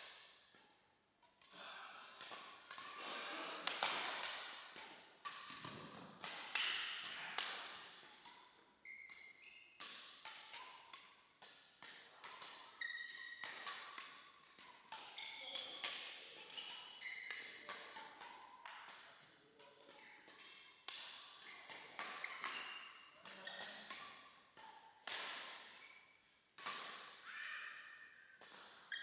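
Badminton rackets striking the shuttlecock in a rally, sharp irregular hits echoing in a hall, with short shoe squeaks on the court floor.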